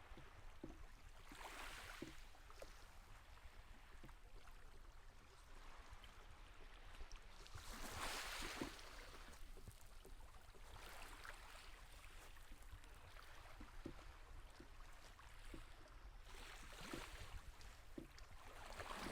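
Small waves of Lake Superior washing onto the shore, faint, swelling and fading every few seconds, with the biggest wash about eight seconds in.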